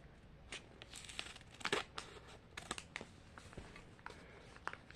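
Small plastic wrapper crinkling as a packet is handled and cut open, a scattering of sharp crackles and snips, the loudest a little under two seconds in.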